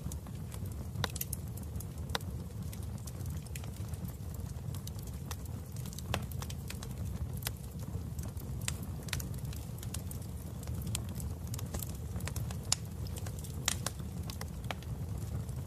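Wood fire burning in a fireplace: a steady low rumble under irregular crackles and pops.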